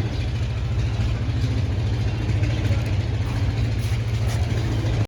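An engine running steadily with a deep, low hum.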